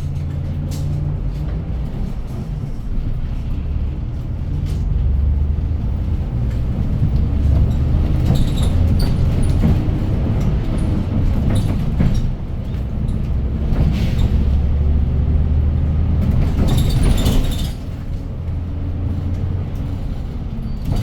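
City bus cabin noise while driving between stops: a steady low engine and road rumble that swells and eases as the bus speeds up and slows, with a few sharp rattles or clicks.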